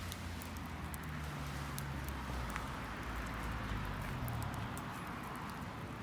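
Wood bonfire crackling with scattered sharp pops and clicks over a steady low hum.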